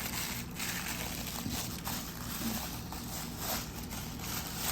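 Paper wrapping of a Play-Doh set rustling and crinkling as it is torn and pulled open by hand, in short irregular scrapes.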